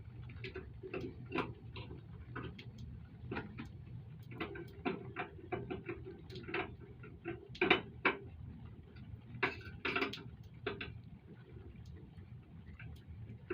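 Irregular light clicks and taps of metal fittings and hand tools being handled, a few a second, with a couple of louder knocks about eight and ten seconds in, over a steady low hum.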